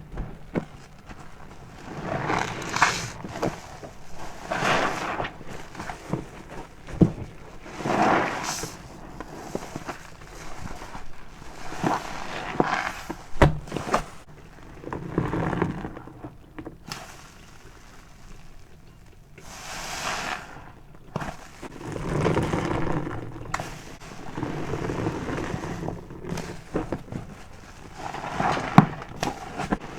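A car wash sponge soaked with body soap squeezed again and again: wet, foamy squelching and crackling that swells and eases with each squeeze, a few seconds apart, with a few sharp clicks.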